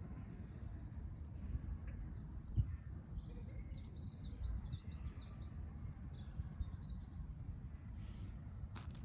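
A small bird twittering in a quick run of chirps that sweep up and down, lasting a few seconds, over a steady low background rumble.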